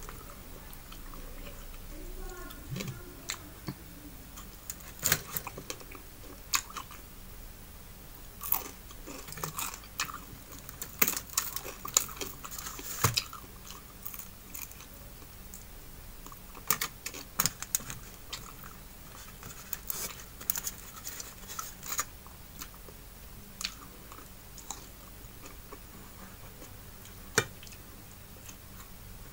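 Close-up chewing of fried fish and rice eaten by hand, with irregular sharp clicks and crunches of the mouth.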